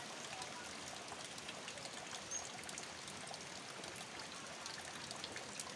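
Steady rain falling: a continuous hiss with many small, scattered drop ticks.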